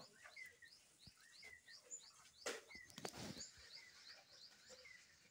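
Faint outdoor ambience with a small bird chirping over and over, short falling chirps about three a second. A brief knock and a short rustle come about halfway through.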